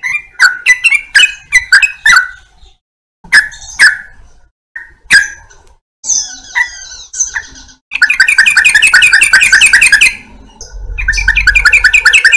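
Yellow-vented bulbul (trucukan) singing loudly: short, separate notes in bursts, then a fast run of repeated notes, about nine a second, that breaks off briefly and starts again.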